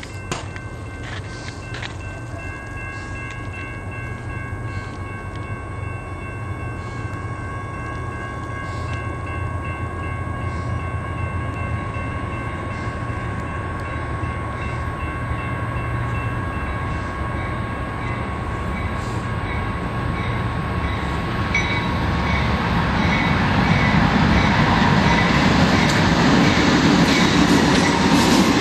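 Approaching freight train led by diesel locomotives, including a GE Evolution-series unit: a low engine rumble grows steadily louder as the train nears. Over most of the first two-thirds, a set of steady high tones sounds, then fades. The noise is loudest near the end, as the lead locomotives pass close by.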